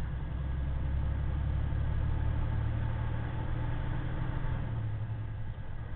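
Semi truck's diesel engine running steadily, heard from inside the cab as a low, even drone with road noise.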